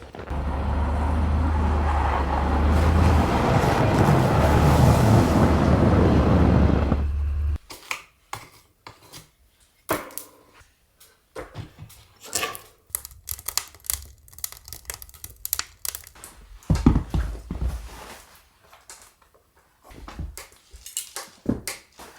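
A steady rushing noise with a low rumble for the first seven seconds or so, cutting off abruptly, then irregular scraping and crunching strokes of snow being cleared off a pickup truck.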